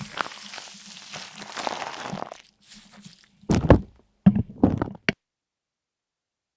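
Rustling and crunching for about two seconds, then a handful of loud, dull thumps in quick succession, after which the sound cuts off abruptly.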